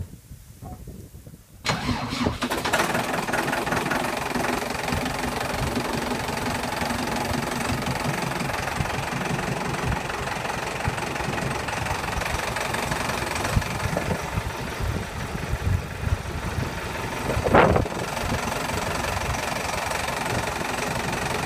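New Holland TL100A tractor's diesel engine, started from cold, firing suddenly about two seconds in and then running steadily at idle. A brief louder burst comes near the end.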